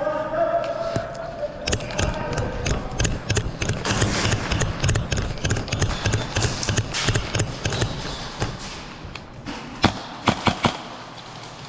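Indoor airsoft game: a long run of quick thumps and clicks, then a tight string of four sharp cracks about ten seconds in, typical of airsoft gunfire. Faint voices sound at the start.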